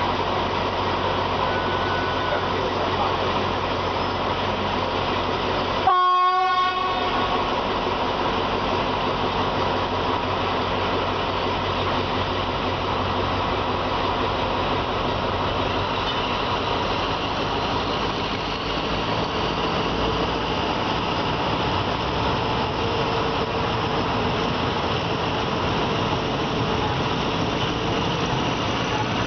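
Train running on the rails, heard from a carriage window as a steady rumbling rail noise. About six seconds in, a single horn blast of about a second.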